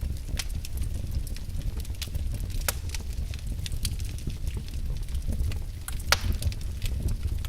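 Logs burning in a fireplace: irregular sharp crackles and pops over a low, steady rumble of the flames. Two louder pops come about a third of the way in and toward the end.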